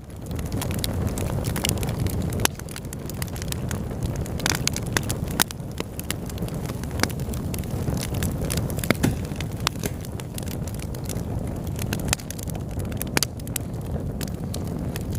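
Wood fire burning in a fireplace: a steady low rumble with frequent sharp crackles and pops, fading in at the start.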